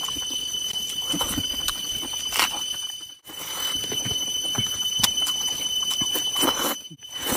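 Close-up eating sounds: a person chewing and smacking on a mouthful of food, with small wet clicks, over a steady high-pitched whine. The sound cuts out briefly twice, about three seconds in and near the end.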